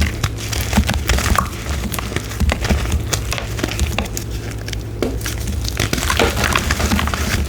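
Gym chalk being crushed, a dense run of dry crunches and crackles with soft low thuds underneath.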